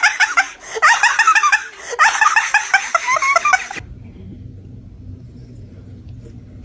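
High-pitched giggling laughter in quick rapid bursts, cut off suddenly about four seconds in, leaving a low steady hum.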